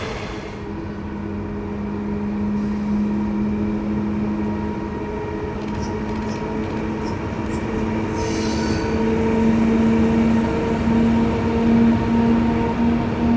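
Train running along the line, a steady hum with a few sustained tones over a rumble, growing louder in the second half, with a few brief high clicks around the middle.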